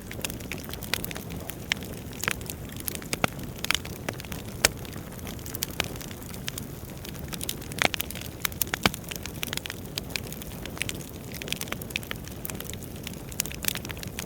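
Wood fire burning in a fireplace: a steady low rumble of flames with irregular crackles and sharp pops from the burning logs, a few louder pops about halfway through.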